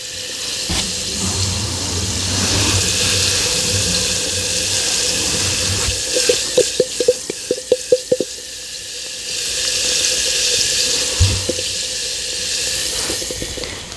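Bath bomb fizzing in a container of water: a steady hiss, with a quick run of small clicks about halfway through.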